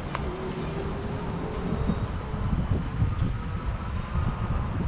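Uneven low rumble of wind buffeting the microphone during an outdoor ride, with a faint steady whine through the first couple of seconds and a click or two near the start.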